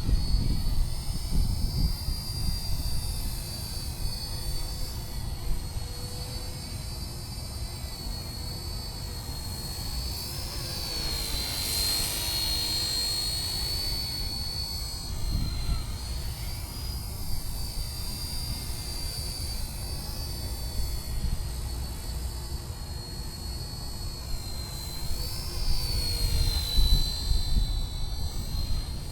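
Radio-controlled UH-1 Huey scale helicopter in flight: a steady high-pitched whine that wavers in pitch with the throttle and swells loudest about twelve seconds in, over an uneven low rumble.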